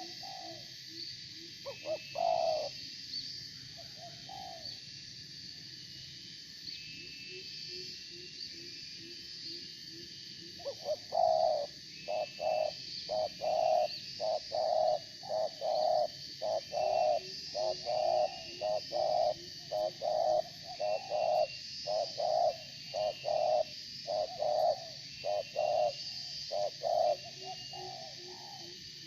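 Spotted doves cooing: a few coos early, then a long run of coos repeated about once a second from about eleven seconds in. Under them, a steady high chirping of insects and small birds.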